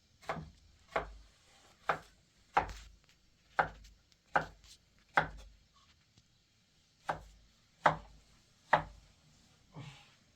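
Chopping: a blade strikes down onto a wooden surface about once a second, about eleven sharp blows, with a short pause around the middle.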